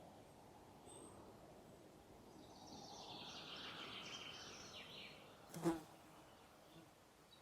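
A flying insect buzzing close by, swelling and fading over about two seconds. Near the end there is one sharp snap or knock, the loudest sound.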